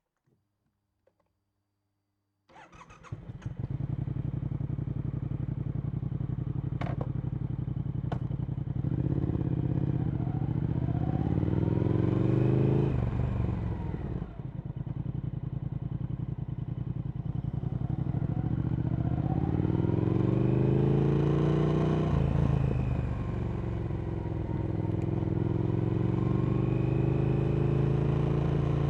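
A Triumph Speed Twin 1200's parallel-twin engine with Vance & Hines slip-on exhausts, starting about two and a half seconds in and idling, with two short clicks a few seconds later. It then pulls away and accelerates: the engine pitch climbs, drops back about halfway through and again near the end, and climbs again each time as it goes up through the gears.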